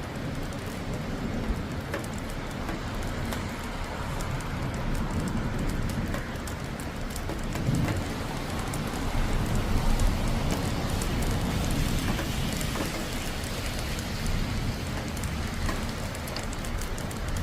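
Steady rain falling during a thunderstorm, a continuous hiss dense with the clicks of individual drops. A low rumble runs underneath and swells a little around the middle.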